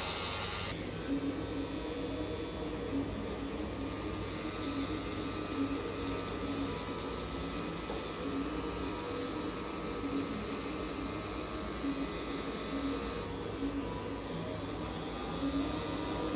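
Electric tattoo machine running with a steady motor buzz while needling.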